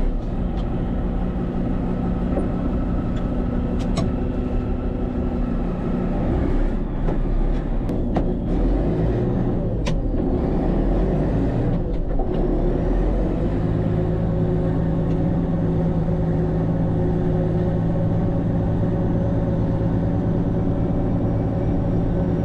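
Diesel engine of a Case 2670 four-wheel-drive tractor running steadily while working a field. Its speed shifts about halfway through, then settles to a steady lower note. A few short knocks or clicks sound over it.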